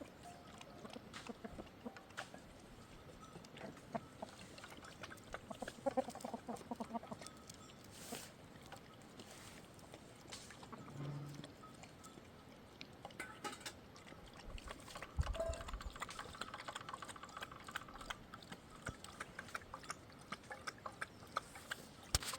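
Chickens clucking now and then among other farm animal sounds, with scattered small clicks and knocks.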